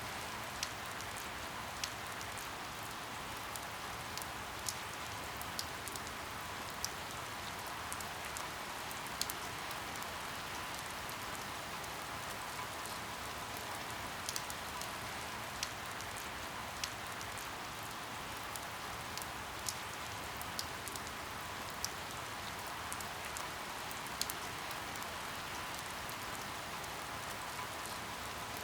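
Steady rain falling, with scattered sharp ticks of individual drops striking a surface about once a second.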